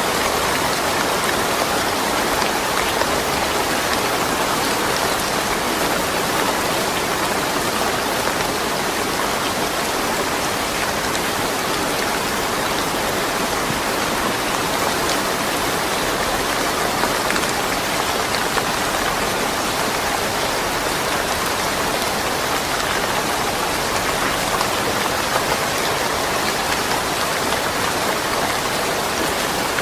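Steady rain falling, an even hiss with scattered drops and no thunder.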